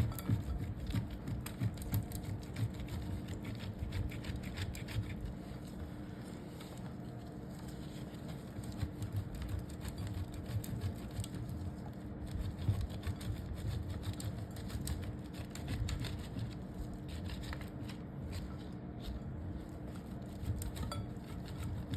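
Dry soap being shredded: a continuous run of crisp crunches and soft scrapes, busier at the start and again in the second half.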